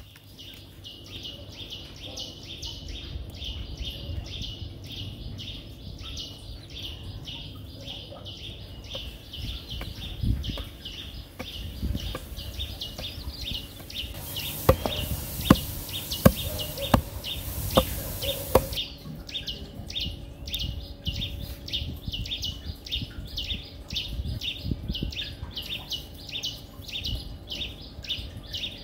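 A bird repeats a short high chirp about two to three times a second throughout. In the middle, a hoe chops into the soil five times in a row, sharp knocks about a second apart that are the loudest sounds.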